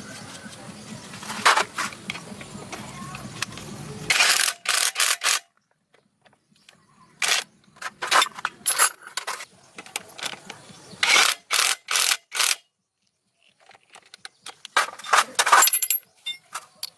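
Short bursts of scraping and clinking, coming in clusters a few seconds apart, over a steady background noise that cuts out about four seconds in.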